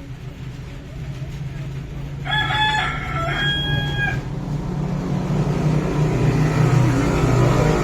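Rooster crowing once, about two seconds in: a short note followed by a longer held one. A steady low drone runs underneath.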